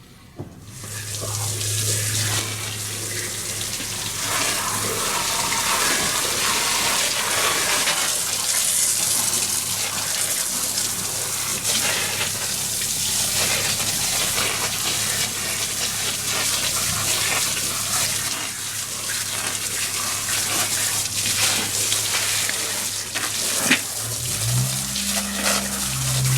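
Water running steadily, as from a tap or hose, starting abruptly about half a second in. A low hum joins near the end.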